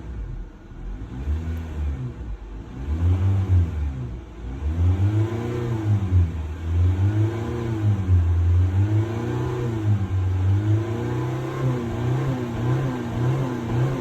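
2020 Honda Civic's engine revved over and over in short blips, the pitch rising and falling about every second and a half, then held steadier with small wavers near the end.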